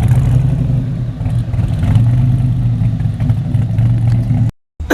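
Car engine running close by with a deep, steady, loud note and slight swells in level. It cuts off abruptly near the end.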